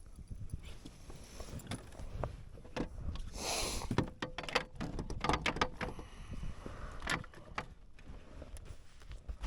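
Irregular knocks and clatter of gear being handled on a fishing kayak, over a low rumble. About three and a half seconds in there is a short hissing burst, followed by a quick run of sharp knocks.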